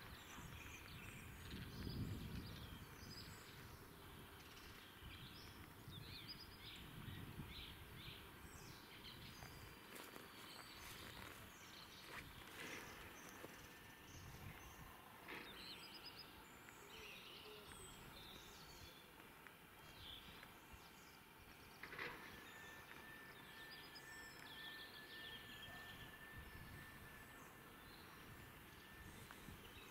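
Faint, near-silent outdoor ambience with scattered small bird chirps and calls throughout. A thin, steady high note holds for several seconds in the last third.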